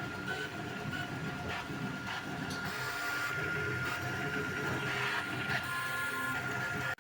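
Creality Ender 3 V3 3D printer running a print: its stepper motors whine with one steady high tone, while shorter tones shift in pitch as the head moves.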